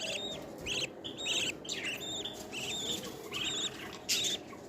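Young pet birds chirping: a rapid run of short, high-pitched calls, several a second.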